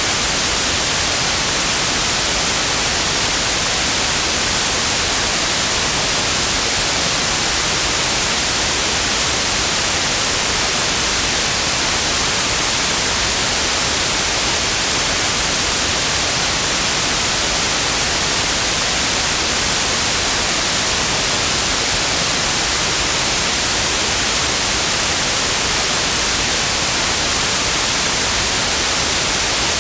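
Synthetic white noise: a steady, even hiss with no change over time, bright and heavy in the treble.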